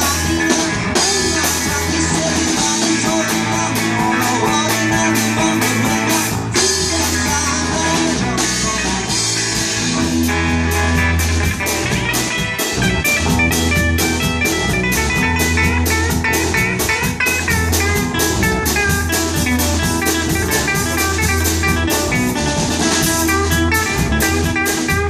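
Live rock band playing an instrumental break: electric guitar over bass and drum kit, the guitar bending notes in a lead line in the second half.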